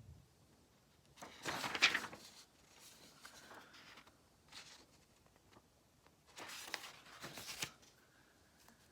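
Pages of a paper booklet being turned, rustling twice: once about a second and a half in, and again about five seconds later.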